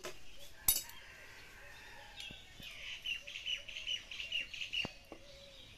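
A bird chirping, a quick run of short repeated notes, about four or five a second, through the middle. A sharp click comes just under a second in and is the loudest sound.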